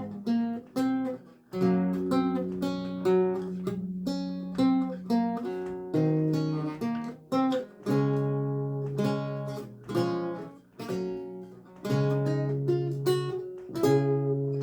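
Solo lute music: single plucked notes and chords, each ringing and fading, over longer-held bass notes.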